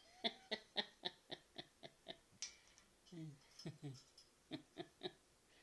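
A quick, even run of sharp clicks, about four a second for roughly two seconds, then after a pause a few short low voice sounds and several more spaced clicks.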